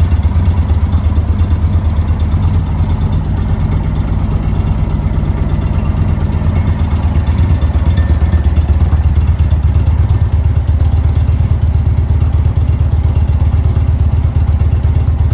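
2018 Indian Springfield's Thunder Stroke 111 V-twin engine idling steadily with an even low pulsing rumble.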